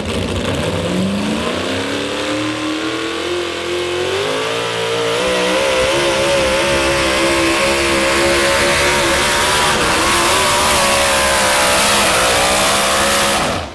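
Modified 4x4 pulling truck's engine at full throttle during a pull. It climbs in pitch for about five seconds, holds high with a wavering pitch, then cuts off sharply near the end as the throttle is released.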